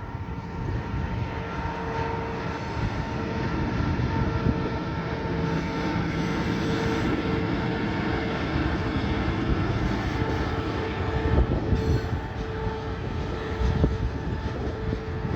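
A train running past: steady rumbling and rolling noise with a constant whine and a few sharp knocks from the wheels.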